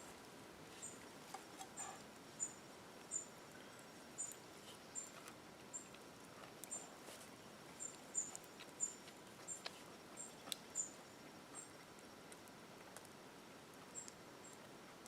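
Faint, high-pitched short chirps from a small animal, repeating every half second or so with a pause of about two seconds near the end, over quiet outdoor background with a few soft clicks.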